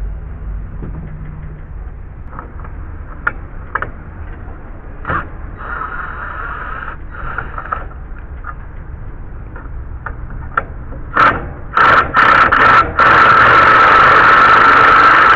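Power drill backing a long wood screw out of deck framing, with scattered knocks and scraping of wood. Near the end the drill starts and stops in short bursts, then runs steadily with a loud whine.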